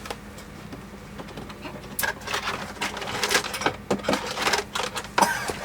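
Small plastic and metal parts being handled: a quick, irregular run of clicks, rattles and scrapes starting about two seconds in, over a faint steady hum.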